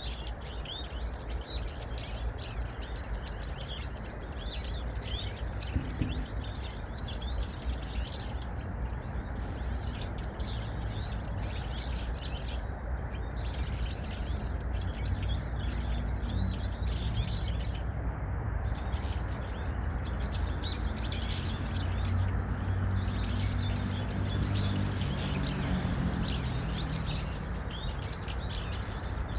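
Many small birds chirping continuously in rapid, overlapping short calls over a steady low background rumble. A low hum comes up about halfway through and fades near the end.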